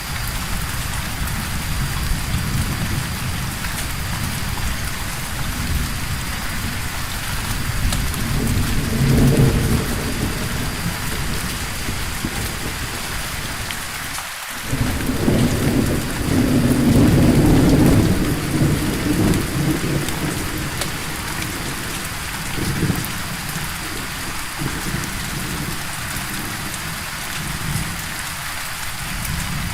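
Steady rain with rolling thunder: a rumble about nine seconds in, a longer, louder roll from about fifteen to nineteen seconds, and a shorter rumble near twenty-three seconds.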